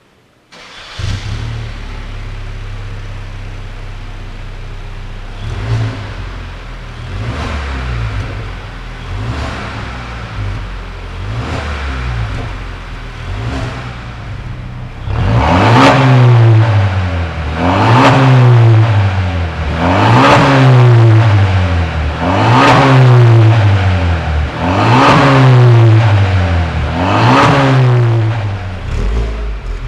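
Kia Stinger 3.3T twin-turbo V6 through an aftermarket valved exhaust, starting up and idling, then blipped in short free revs. The revs are small at first; from about halfway on they come about every two and a half seconds and are much louder.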